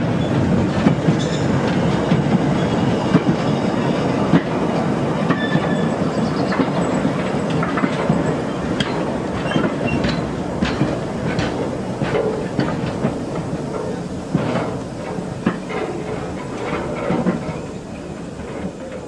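Railway wheels rumbling and clattering over the rail joints at low speed, with scattered metallic clanks and brief squeals from the wagons, growing gradually quieter toward the end.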